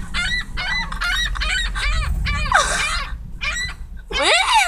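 Birds calling in quick repeated squawks, several short calls a second. Near the end a louder cry begins that wavers up and down in pitch.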